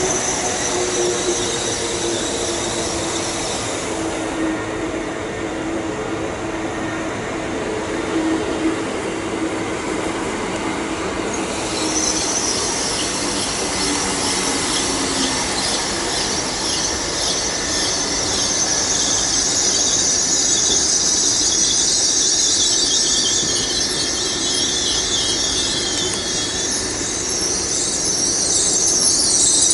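Hitachi Class 800 intercity express trains running through the platforms with a steady rumble, and a high-pitched wavering wheel squeal that sets in about twelve seconds in and grows louder near the end as a unit draws into the platform.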